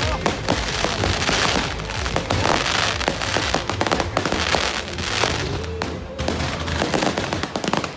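Fireworks going off: a dense run of rapid crackling pops, with repeated hissing bursts, over background music.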